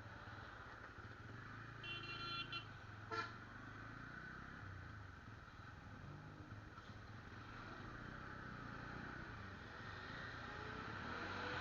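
Motorcycle ride on a road: a steady engine hum with road noise, a vehicle horn sounding about two seconds in and a short toot a second later. Near the end an engine rises in pitch and gets louder.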